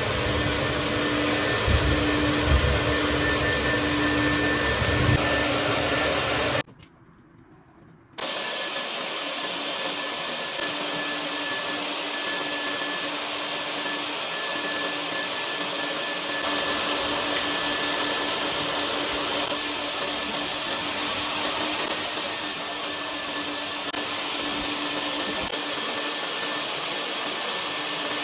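Vent-cleaning vacuum running steadily with a humming tone in its noise. It cuts out about six and a half seconds in, and after a brief near-quiet gap a similar steady vacuum noise with a faint whine runs on.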